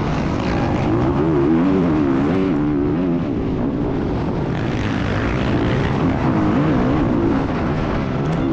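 Dirt bike engine revving up and down while being ridden, its pitch rising and falling every second or so, over a steady rush of noise.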